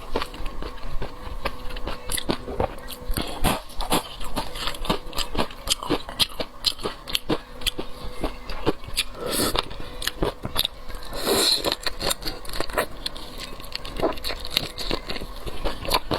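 Close-miked mukbang eating sounds: seafood being bitten, crunched and chewed, with dense irregular crackling clicks and a few longer wet, slurping bursts.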